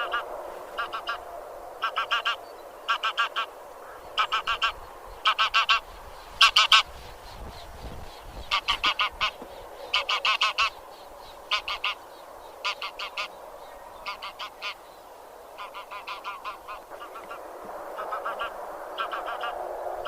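A flock of geese (genus Anser, grey or white geese) honking: short calls in quick runs of two to four, one run about every second, with a fainter din of other geese beneath.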